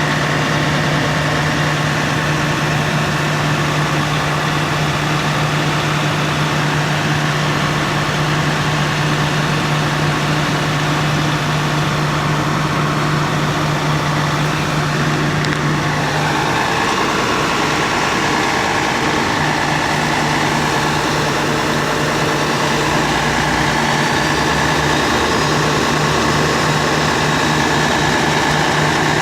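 Fire truck's engine running steadily with a low, even hum. About halfway through the hum breaks up and the engine's tone shifts.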